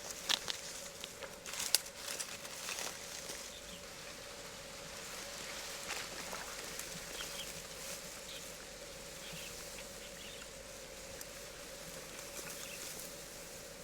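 Outdoor ambience with a few sharp rustles and taps in the first three seconds, over a steady faint hum and hiss.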